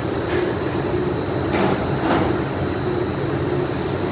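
Factory machinery running steadily with a constant high whine, and three short hisses in the first half.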